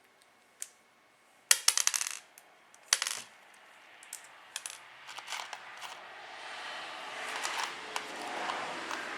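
Small metal screws clinking and jingling: two quick metallic rattles with ringing clicks, scattered lighter clicks, then a longer rising rustle over the last few seconds.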